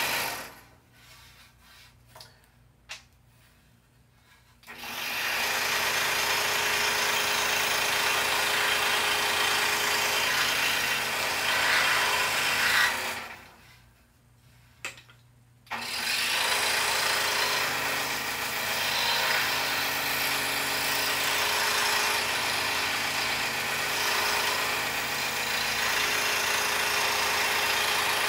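Scroll saw running steadily as it cuts a poplar puzzle blank. It stops twice for a few seconds, about a second in and again about halfway, with only a few faint clicks in the gaps, then starts up again.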